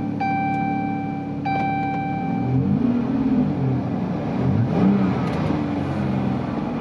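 Dodge Charger engine idling with a car's warning chime dinging a few times, then revved up and back down several times. It is being run just after a thermostat replacement to check the cooling system.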